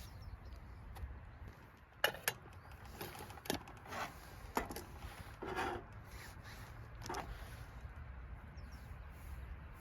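A handful of short, light knocks and clicks at uneven intervals over a steady low rumble.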